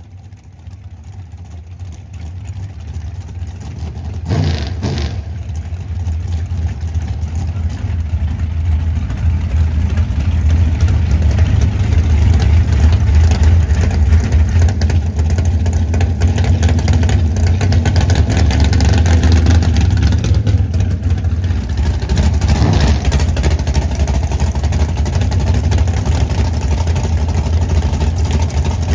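Drag-race car engines running, growing steadily louder over the first ten seconds and then holding a loud, deep, steady sound, with brief swells about five seconds in and again past twenty seconds.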